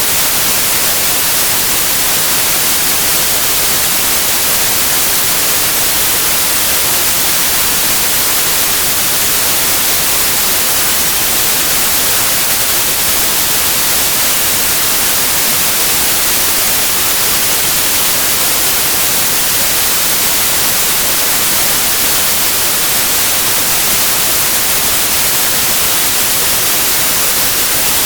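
Steady, unbroken white noise: an even hiss, loudest in the highs.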